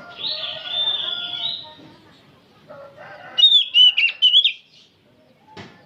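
Oriental magpie-robin singing: a loud burst of quick, whistled notes jumping up and down in pitch about three and a half seconds in. Before it, a drawn-out call lasts about a second and a half.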